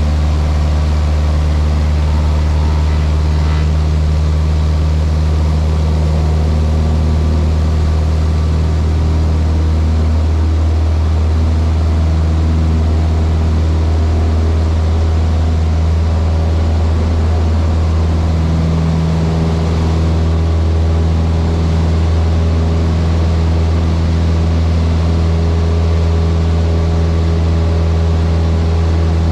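Cessna 152's four-cylinder Lycoming engine and two-blade propeller droning at a steady power setting, heard from inside the cockpit.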